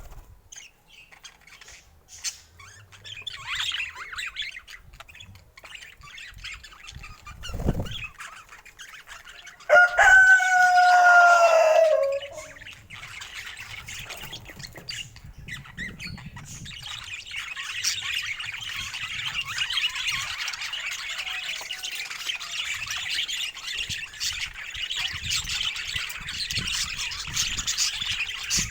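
A rooster crows once about ten seconds in, a long pitched call that drops at the end. Later a steady chatter of many small birds sets in and carries on.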